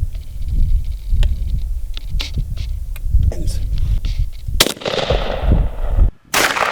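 Low rumble with scattered light clicks, then two loud sharp bangs about four and a half and six seconds in. Each bang rings out for a second or more as it fades.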